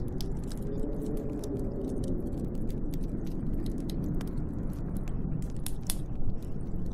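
A wood fire crackling, with many sharp pops and snaps, over a steady low wind whose howl wavers up and down in pitch.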